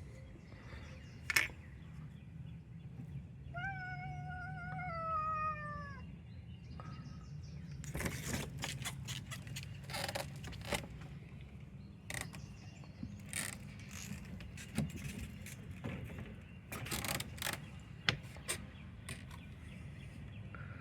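A cat meowing once, a single long meow of about two and a half seconds starting a few seconds in, its pitch dropping slightly at the end. Scattered short clicks and rustles follow later.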